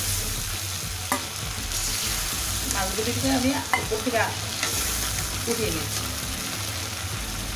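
Shing (stinging catfish) pieces sizzling as they fry down in spice paste in a metal karai, the kosha stage of a fish curry. A metal spatula stirs and scrapes the pan, with a couple of sharp clinks and short squeaky scrapes near the middle.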